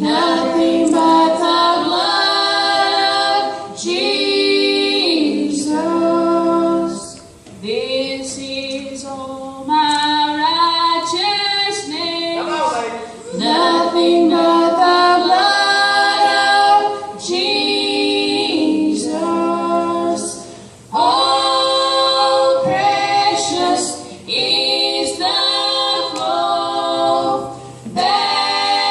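A gospel vocal group singing in close harmony without accompaniment. The women's voices carry phrases that break every few seconds for a breath.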